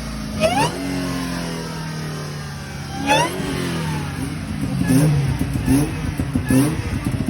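Dodge Charger SXT's 3.6-litre V6 revved twice, each rev rising sharply and falling back, about half a second in and again about three seconds in. After that it runs with a rough rumble and short rising blips a little under once a second.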